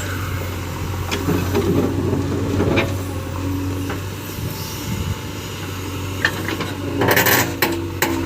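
JCB excavator's diesel engine running steadily, with scattered metallic knocks and clanks and a louder burst of noise about seven seconds in.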